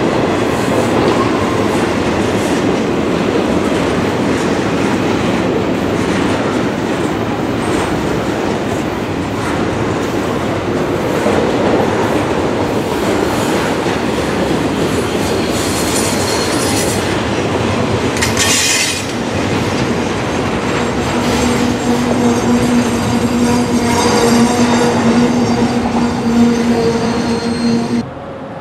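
Double-stack container well cars of a long freight train rolling past close by on a curve: a steady, loud rumble of steel wheels on rail with clacking over rail joints. Brief high wheel squeals come about two-thirds of the way through, and a steady droning tone runs under the rumble in the last several seconds.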